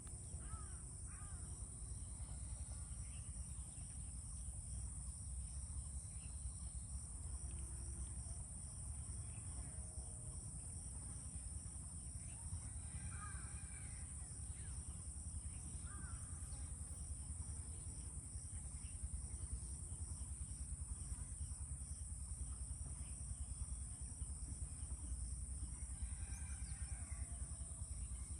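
Outdoor rural ambience: insects keep up a steady high drone with a fast pulsing chirr beneath it, over a low rumble, while birds call a few times, briefly.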